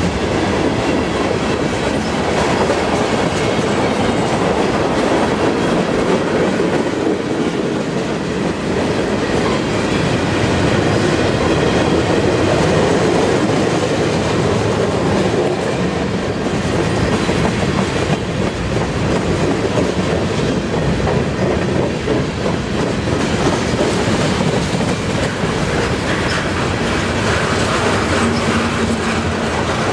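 A CN freight train's tank cars and covered hopper cars rolling past at close range: a steady, continuous noise of steel wheels running on the rails.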